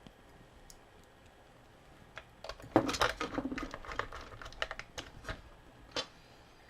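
Light clicks and taps of small plastic toy parts and screws being handled and fitted together, bunched together from about the middle onward.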